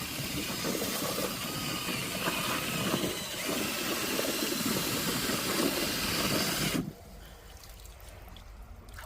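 A jet of water spraying onto freshly dug potatoes to wash the soil off, a steady hiss that cuts off abruptly about seven seconds in.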